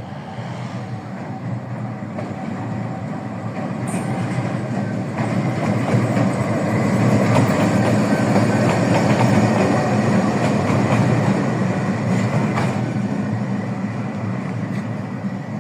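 GEU-20 diesel-electric locomotive running along the track, its engine drone growing louder toward the middle and fading again as it passes. A couple of sharp clicks from the wheels on the rails come through.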